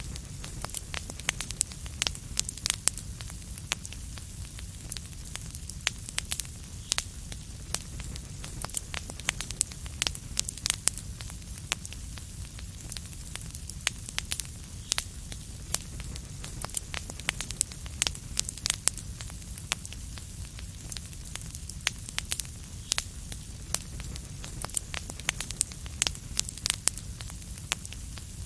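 Fireplace fire crackling: frequent, irregular sharp pops and snaps over a steady low rumble and hiss.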